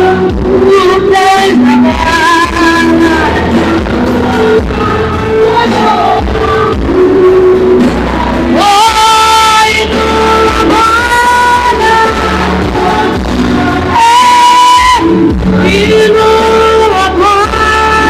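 Worship song sung by male and female voices over instrumental backing, with long held notes over a steady bass.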